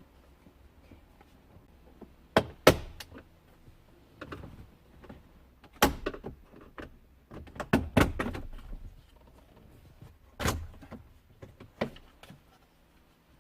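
Irregular sharp clicks and knocks of the Hyundai IONIQ 5's dashboard audio unit and its plastic trim being pried and worked loose, with handling rustle between the strikes.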